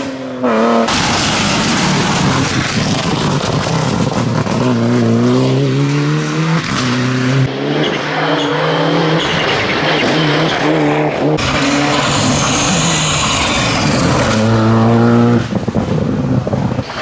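Rally cars' engines revving hard, the pitch climbing and falling again and again as they shift gears, with several passes cut together one after another.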